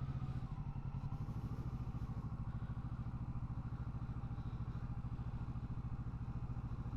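Motorcycle engine running steadily at low revs with an even, fast pulsing beat.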